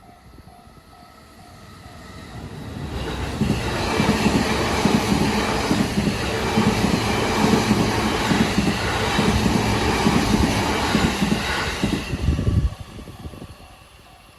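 A JR Chūō Line train passing over a level crossing close by. Its wheels clatter over the rail joints as it builds up over a couple of seconds, runs loud for about nine seconds, and cuts off sharply near the end as the last car clears. A level-crossing alarm bell rings steadily and faintly before and after the train.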